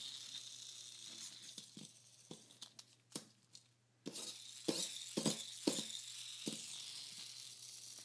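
Plastic toy mini motorbike set going: a high whirring hiss with scattered sharp plastic clicks and knocks. The whir fades away about three seconds in, then starts again suddenly about a second later with a quick cluster of knocks.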